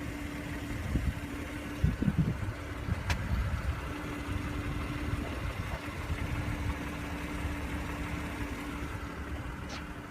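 A car engine idling steadily: a low rumble with a constant hum, and a few faint clicks.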